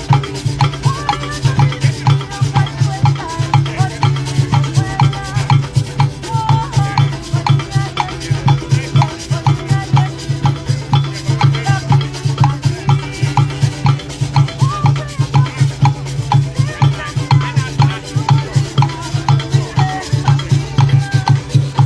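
Live percussion music: drums beating out a steady, fast rhythm with maracas shaking along.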